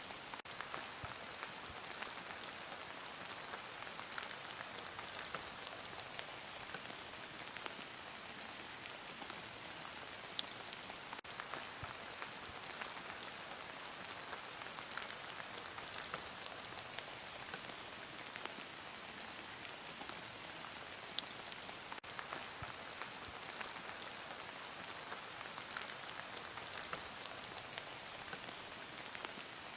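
Heavy rain falling steadily, a dense even hiss with many small scattered drop ticks on a surface.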